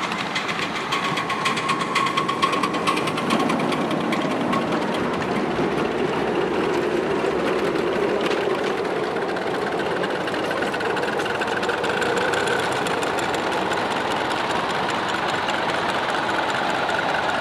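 Miniature railway train running, with a fast, even mechanical clatter.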